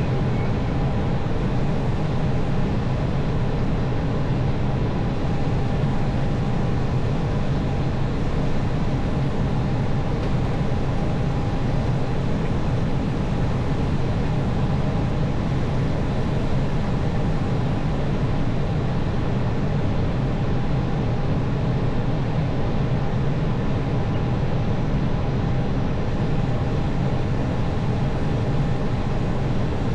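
Steady airflow and engine noise inside an Airbus airliner's cockpit on approach: an even low rumble with a few faint steady tones over it.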